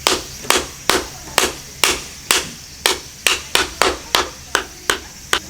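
A knife being batoned through a piece of firewood: about fourteen sharp wooden knocks, roughly two a second and a little quicker in the second half.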